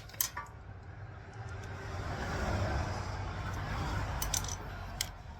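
A road vehicle passing by, its rumble swelling and then fading over a few seconds. A few sharp metallic clicks near the start and again near the end, from steering parts being handled.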